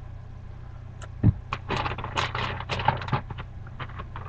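Handling noise from a Smith & Wesson K-38 revolver: a quick run of small metallic clicks and scrapes, with one louder knock about a second in, over a steady low hum.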